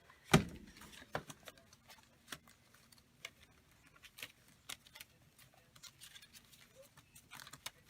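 Papers and small craft pieces being handled and sorted through: scattered light clicks and ticks, with one sharp knock about a third of a second in.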